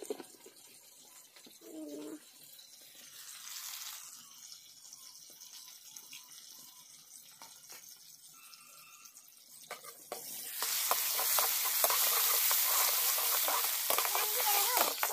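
Bamboo shoot pieces frying in hot oil in a kadai: after a quieter stretch, a loud sizzle with crackling starts suddenly about ten seconds in and keeps going.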